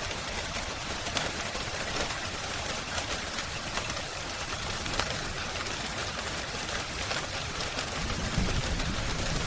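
Steady rain hiss with the scattered sharp pops and clicks of a crackling wood fire. A low rumble swells near the end.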